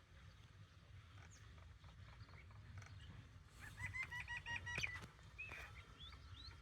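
Faint bird calls over a low steady hum: a quick run of repeated pitched notes about four seconds in, then a few short chirps near the end.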